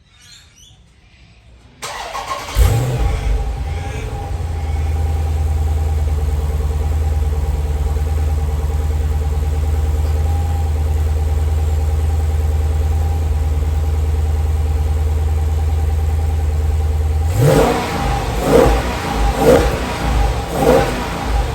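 Chrysler 300C's Hemi V8 being started: the starter cranks briefly, the engine catches about two and a half seconds in with a flare, then settles into a steady idle through the standard exhaust. Near the end it is revved four times in short blips.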